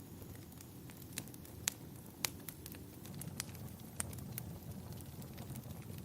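Wood fire burning in a fireplace, crackling with irregular sharp pops, two of them louder about two seconds in, over a steady low rumble.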